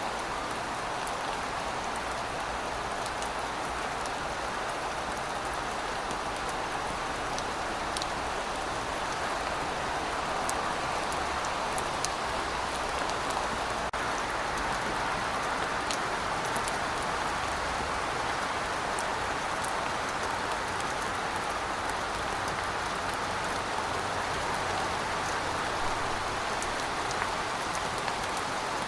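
Heavy rain falling steadily, a dense even hiss with scattered sharp ticks of single drops striking.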